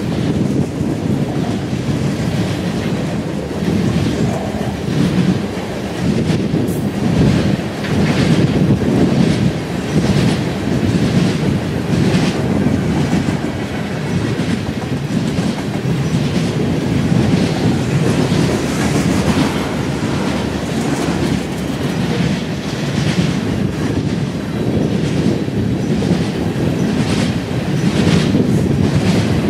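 Railroad cars rolling past at close range: a steady rumble of steel wheels on rail, with repeated clacks as the wheels pass over rail joints.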